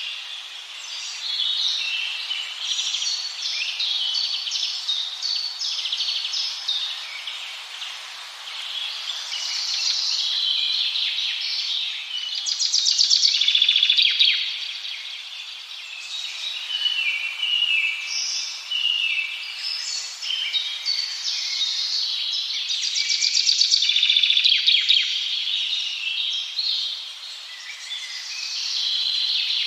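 A chorus of several songbirds singing at once, overlapping chirps and warbles, with louder rapid trills swelling up twice, about halfway through and again later on.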